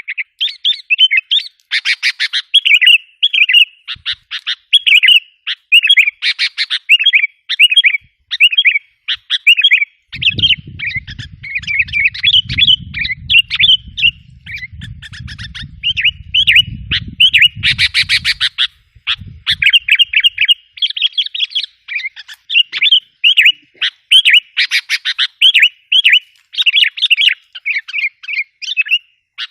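Sooty-headed bulbul (kutilang) calls used as a lure call: an unbroken run of short, quick chirping phrases. A low rumble runs under the calls from about a third of the way in until just past the middle.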